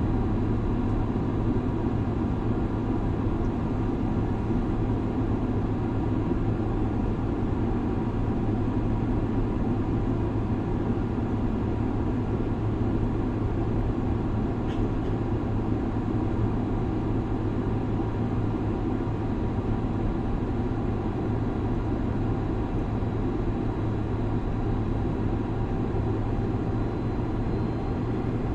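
Steady cabin noise of an airliner in flight: an even drone of engines and airflow with a low hum, and one faint click about halfway through.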